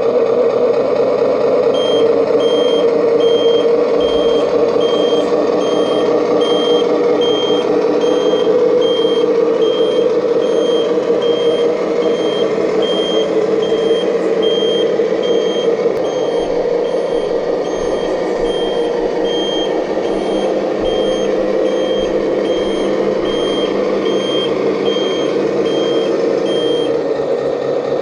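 Sound module of a remote-control construction-vehicle model playing a backup alarm: a high beep repeating in an even rhythm, a little under twice a second, over a steady simulated engine hum. The beeping stops shortly before the end while the engine sound runs on.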